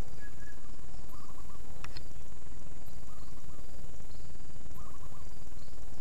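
A bird repeating a short call about every two seconds over a steady high insect drone, with a steady low rumble on the microphone and one sharp click about two seconds in.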